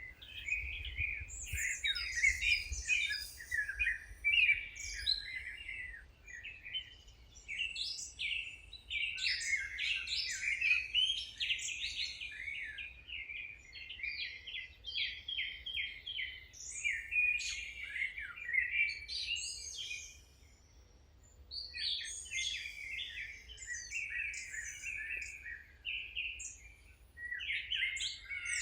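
Songbirds singing and chirping in a busy, overlapping chorus of quick high trills, with a short lull about two-thirds of the way through.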